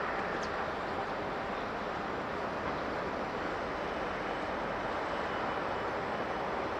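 Steady rushing noise of a jet airliner's engines, even and unchanging in level.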